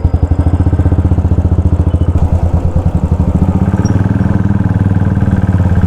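Modified Royal Enfield Continental GT 535's single-cylinder engine running through its loud aftermarket exhaust, a steady, even beat of firing pulses, deep and thunderous.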